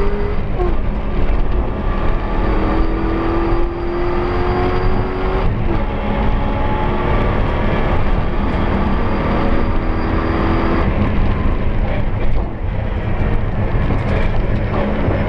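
Toyota 1UZ-FE V8 engine of a Ford Sierra 4x4 rally car, heard from inside the cabin under hard acceleration. Its pitch climbs steadily and drops away about every five seconds, over heavy road rumble from the dirt road.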